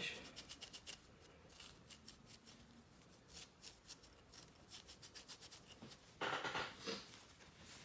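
Polishing cloth rubbed briskly over a sonic screwdriver prop: quick, faint scratchy strokes, louder for about a second near the end.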